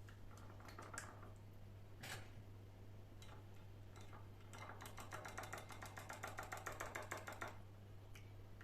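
Kitchen utensil tapping quickly and evenly, about nine strokes a second for roughly three seconds, after a few single clicks.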